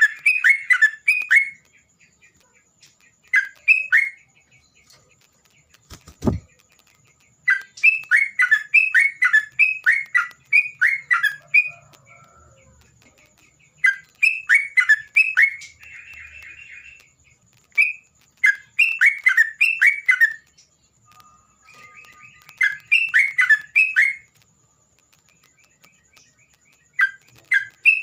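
A songbird singing in repeated bursts of quick, falling whistled notes, each burst lasting one to three seconds with short pauses between. A single low thump comes about six seconds in.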